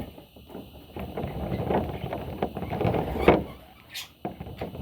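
Budgerigar chicks moving about in a nest box: irregular scratching and rustling with small knocks, the loudest about three seconds in.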